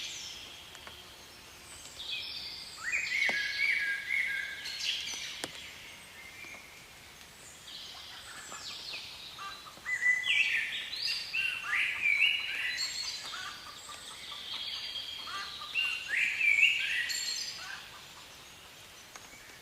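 Wild birdsong: bouts of quick, high, chirping phrases with short pauses between them.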